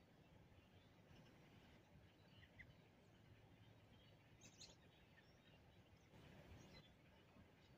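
Near silence: faint background hiss with a few brief, faint bird chirps scattered through it.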